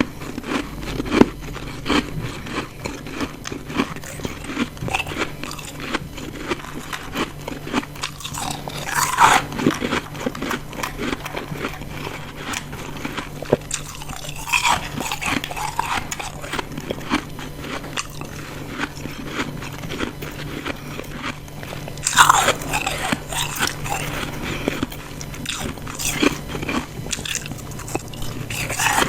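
Close-miked biting and chewing of ice chunks: a steady run of crisp crunches, with louder bites about 9, 15 and 22 seconds in.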